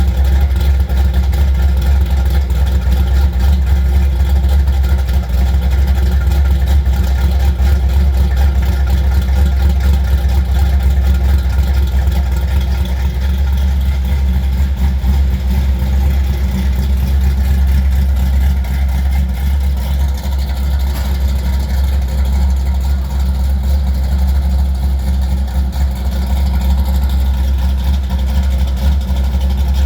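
Chevrolet Monte Carlo G-body's engine idling steadily, fitted with a big camshaft.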